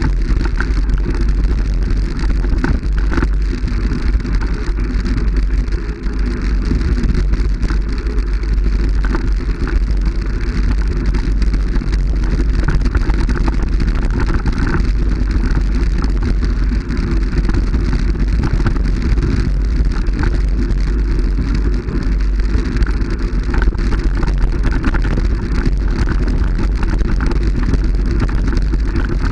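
Steady loud rushing noise over a strong low rumble, unbroken throughout.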